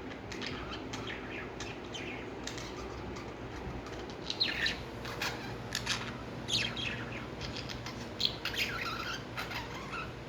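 Pet lovebirds chirping: many short, sharp calls in irregular clusters, several of them quick falling notes, over a low steady hum.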